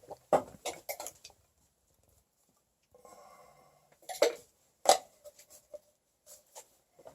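Light clicks and knocks of PVC intake pipe and fittings being handled and glued up. Two sharper knocks come about four and five seconds in.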